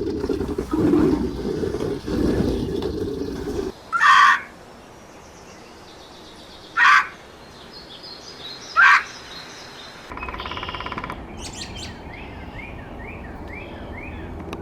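Birds calling: three short, loud calls a few seconds apart, then a buzzy call and a quick run of small chirps. The first few seconds hold a loud low rumbling noise that stops abruptly.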